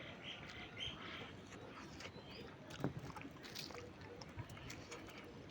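Faint eating sounds: soft clicks and wet smacks of food being mixed and chewed, with one sharper click about three seconds in.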